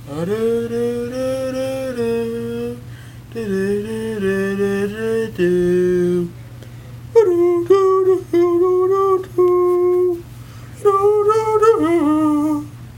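A voice singing a wordless tune in long held notes, in several short phrases with brief pauses; from about seven seconds in the notes are higher. A steady low hum runs underneath.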